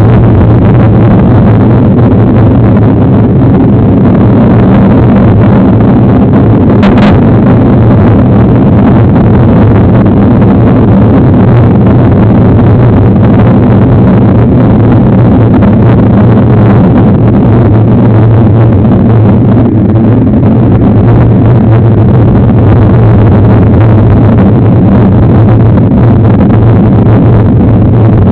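Loud, steady rumble of wind and riding noise on a bike-mounted camera's microphone during a mountain-bike ride, with one short click about seven seconds in.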